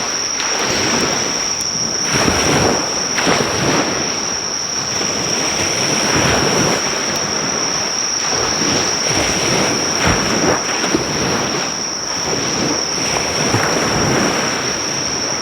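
Sea waves washing onto the shore in repeated rushes, under a steady high-pitched insect trill.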